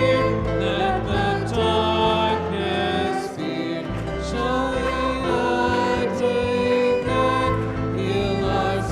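Choral worship music: a choir singing sustained notes over instrumental accompaniment with a bass line.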